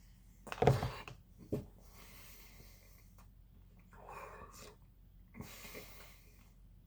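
A man breathing through his nose while eating ice cream: a few short, separate breaths and mouth noises, the loudest under a second in.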